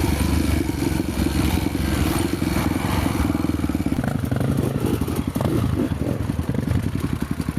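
Honda motorcycle engine running steadily, then easing off about four seconds in to a choppier, slower idle.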